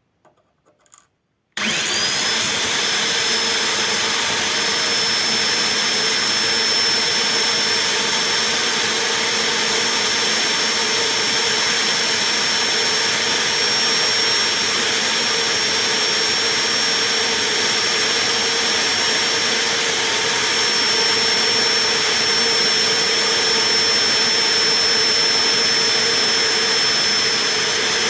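A power tool's motor starts abruptly and runs at a steady speed with a high whine, its pitch rising briefly as it spins up. It is spinning a workpiece for a friction weld.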